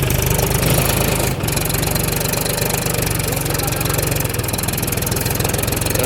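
Mahindra 275 DI tractor's three-cylinder diesel engine running hard under load, the tractor stuck with a full load of sand. The engine note drops a little about four seconds in.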